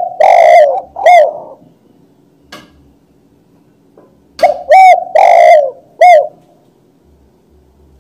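Spotted dove (tekukur) cooing close to the microphone: two loud cooing phrases about four seconds apart. Each phrase is a few short arched coos with a longer drawn-out coo in the middle.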